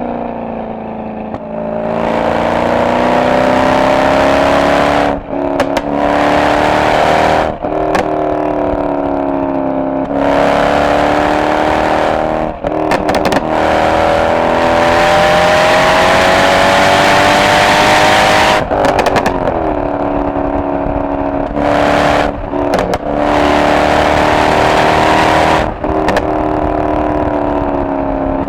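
Mercedes-AMG SL63's V8 exhaust under hard acceleration. The engine note climbs steadily in pitch and is broken by about eight quick gearshifts. Each shift is a brief dip in the sound, several with sharp pops, and the pitch drops back afterwards.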